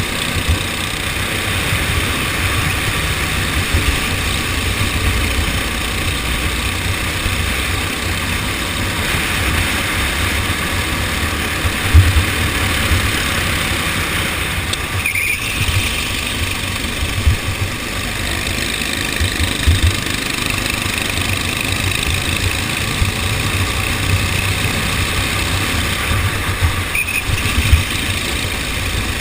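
Go-kart engine running continuously during a race, with irregular low thumps and two brief dips, around 15 and 27 seconds in.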